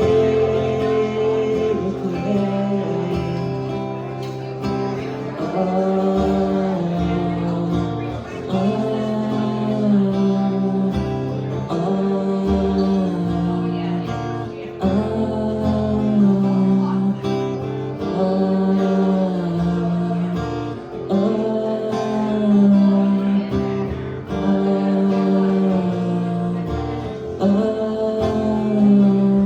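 Acoustic guitar strummed through a repeating chord progression, the chords changing about every two seconds: an instrumental break between sung lines of a solo acoustic song.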